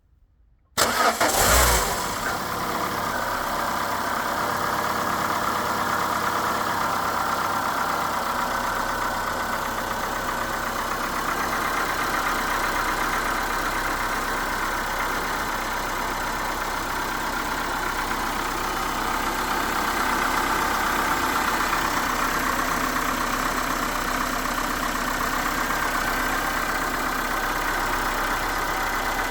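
Citroën C4's TU5JP4 1.6-litre 16-valve petrol four-cylinder engine cold-starting at around 0 °C. It catches with a brief loud burst about a second in, then idles steadily with its mechanical running noise.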